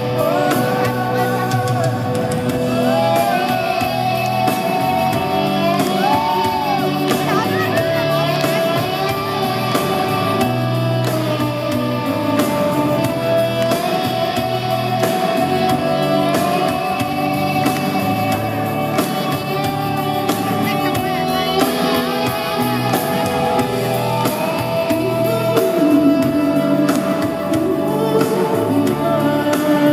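Live pop-rock band playing the instrumental break of a slow ballad in a large arena, a sustained lead melody bending in pitch over steady chords.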